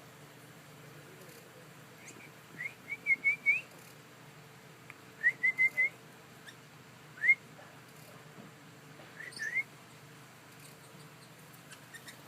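A bird calling in short, rising whistled notes, given in quick runs of four or five, then singly and in a pair.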